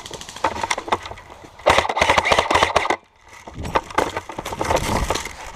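Airsoft guns firing in rapid bursts of sharp clicks and cracks, with a dense burst a couple of seconds in, a brief pause, then more irregular shots.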